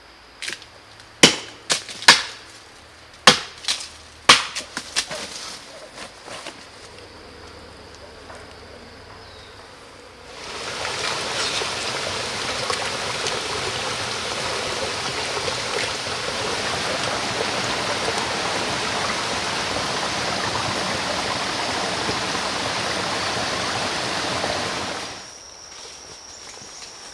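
A series of sharp knocks in the first five seconds or so, then a steady rush of running water that starts abruptly about ten seconds in and stops near the end.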